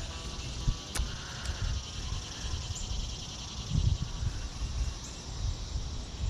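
Outdoor ambience: wind rumbling unevenly on the microphone under a steady high-pitched wildlife chorus, with one sharp click about a second in.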